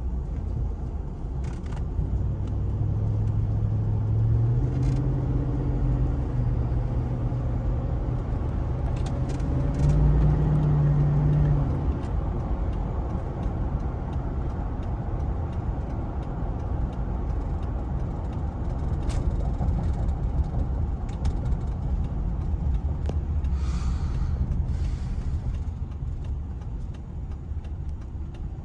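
2005 Cadillac Escalade's 6.0-liter Vortec V8 running. Its note climbs in steps over the first ten seconds or so and drops back about twelve seconds in, then settles into a steady low rumble.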